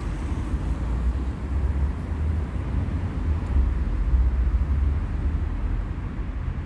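Steady low rumble of city street traffic, with no single vehicle or event standing out.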